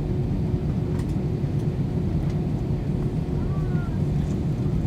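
Steady low cabin rumble inside an Airbus A320 on the ground after landing, its IAE V2500 engines running at idle, with a constant hum over it and a few faint ticks.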